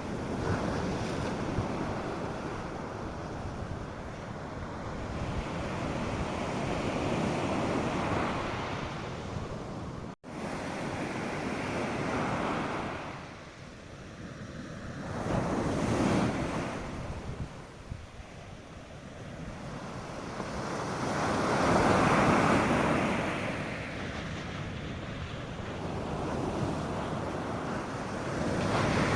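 North Sea surf breaking on the beach: a continuous wash of waves that swells and falls back every several seconds, with a light wind on the microphone. The sound cuts out for an instant about ten seconds in.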